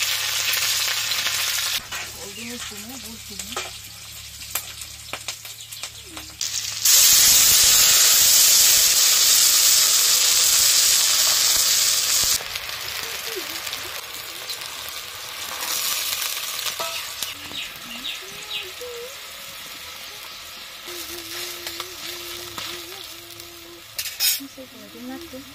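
Garlic paste and green chillies sizzling in hot oil in an iron karahi. About seven seconds in, a loud burst of sizzling lasts some five seconds as liquid goes into the hot oil, then cuts off to a quieter, steady sizzle of the watery masala.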